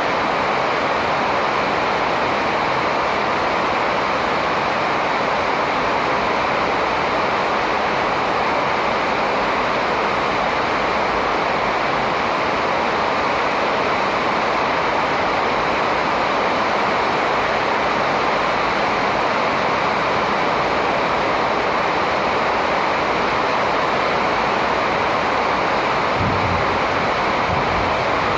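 Steady rushing noise throughout, with a few low thumps near the end.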